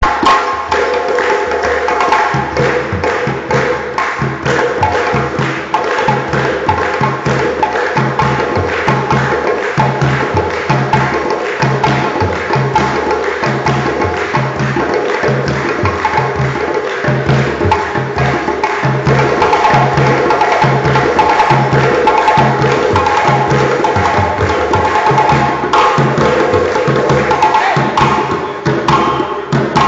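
West African-style percussion ensemble playing: hand drums keep a steady, driving rhythm under a low repeating beat, with sharp, bright wood-block-like strikes on top.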